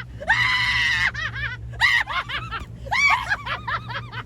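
A person's long, high-pitched scream, then a fast run of short shrieking cries, over a steady low hum.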